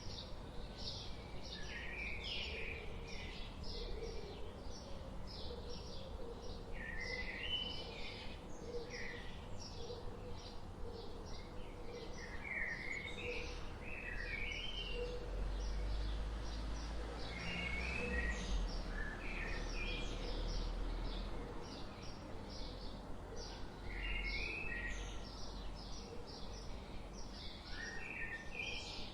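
Forest ambience of birds singing: short high chirps repeat rapidly throughout, and brief warbling phrases come every few seconds. A low rumble rises in the middle and fades again.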